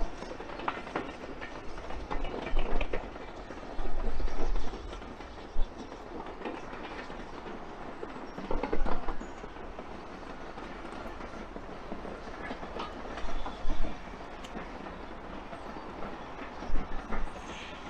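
Train running past on the Swanage Railway line, its wheels clacking irregularly over the rail joints over a steady rumble.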